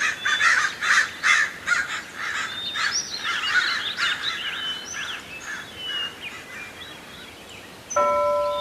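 Birds calling: a rapid run of harsh calls for the first few seconds, then thinner chirps and whistled notes. Near the end, a few steady ringing tones come in, like chimes.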